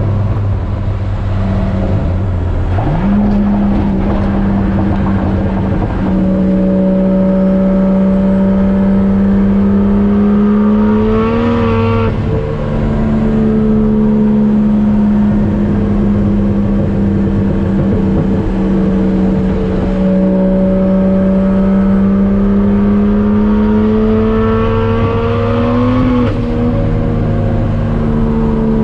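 Turbocharged Toyota 1JZ-GTE VVTi straight-six in a Nissan 240SX, running under way. Its note climbs slowly and then drops sharply twice, about halfway through and again near the end.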